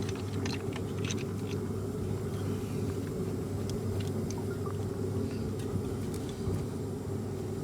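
Steady low workshop drone, with a few light metallic clicks in the first second and a half and a couple more later, as tools and engine parts are handled during a bearing-shell check.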